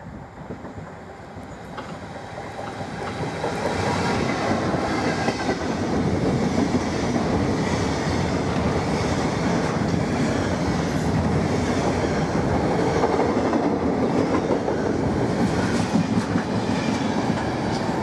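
Class 66 diesel locomotive with its two-stroke V12 engine running, growing louder over the first few seconds as it approaches and passes. Then a long rake of wagons loaded with concrete sleepers and rails rolls past with a steady rumble and wheels clattering over the rail joints.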